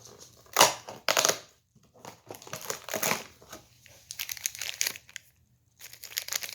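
Cardboard and packaging being torn and crinkled by hand in irregular bursts as the day-2 door of an advent calendar is opened.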